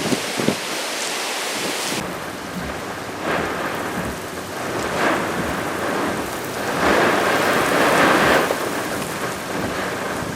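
Typhoon wind and heavy rain: a continuous rushing noise that swells in gusts, the strongest a little past halfway.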